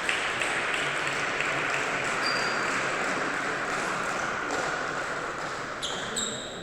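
Table tennis ball clicks and short shoe squeaks on a sports hall floor, over a steady hiss of hall noise.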